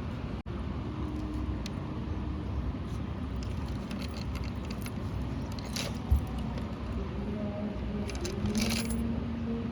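Plastic remote-control toy tractor and dumper rattling and scraping over a low rumble, with one sharp thump about six seconds in.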